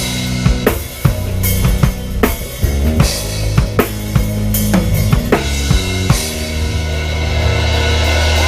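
Live band playing an instrumental passage: drum kit hits, with kick and snare, over sustained bass notes, giving way to a held chord about six seconds in.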